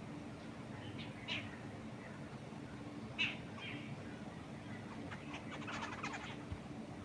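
Wild birds chirping: a few short, high chirps, the loudest about three seconds in, then a quick rapid series of notes near the end, over a steady low background rush.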